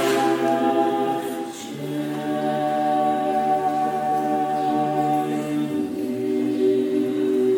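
Orthodox church choir singing a cappella in long held chords, moving to a new chord about two seconds in and again near six seconds.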